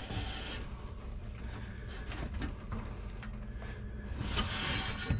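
Light handling noises and a few small clicks as the aircraft engine's oil quick drain is lifted by its T-handle and turned to lock open, over a low steady hum.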